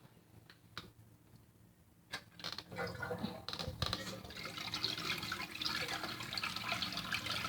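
A few faint clicks and knocks, then a toilet flushing, with water rushing steadily from about three seconds in.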